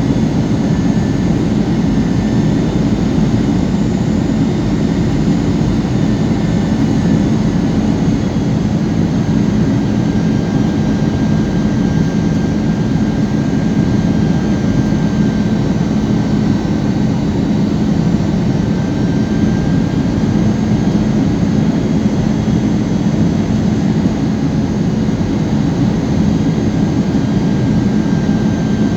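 Airliner engine and airflow noise heard from inside the passenger cabin during the landing approach: a steady, loud rumble with a faint high thin whine running over it.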